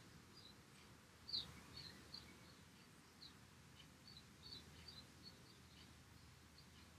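Near silence: room tone with faint, short, high bird chirps scattered through it, the clearest about a second in.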